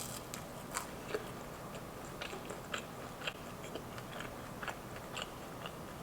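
Close-up chewing of crunchy French fries: irregular small crunches and mouth clicks, a few every second.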